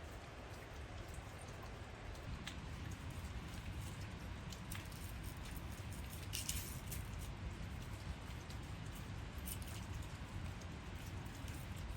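Steady rain falling, with a few sharper drips or taps standing out now and then.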